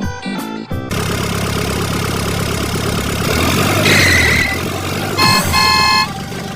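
Vehicle engine running steadily, taking over as music stops about a second in.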